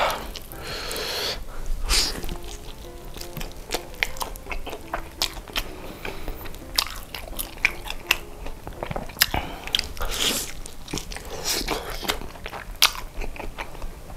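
Close-miked chewing and biting of sauce-glazed fried chicken: wet smacking and irregular sharp crunchy clicks.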